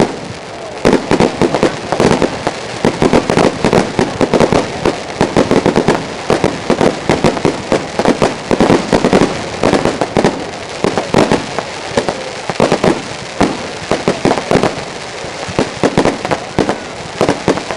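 Aerial fireworks display: a rapid, continuous barrage of bangs and crackling bursts, many per second.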